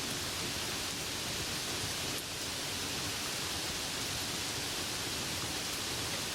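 Steady, even rainfall hiss with no distinct drops or thunder standing out.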